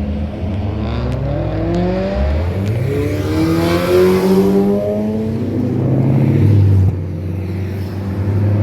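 Car engine accelerating hard past on a mountain road, revs climbing, loudest about four seconds in and again around six and a half seconds, then dropping off abruptly about seven seconds in.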